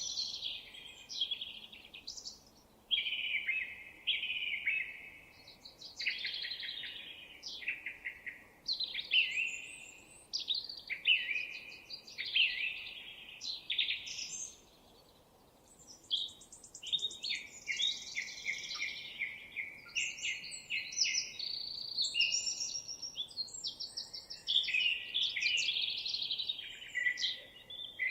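Songbirds singing in long, varied runs of rapid chirps and trills, with a couple of short pauses.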